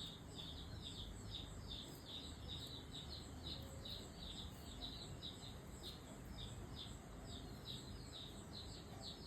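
Birds chirping: a steady, unbroken run of short high chirps, about three a second, over faint low background noise.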